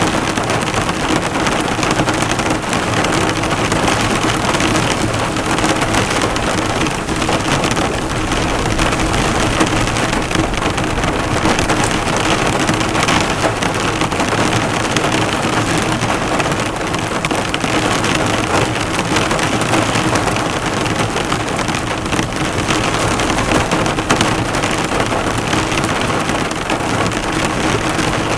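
Heavy rain falling hard on a car, the drops hitting the hood in a dense, steady patter.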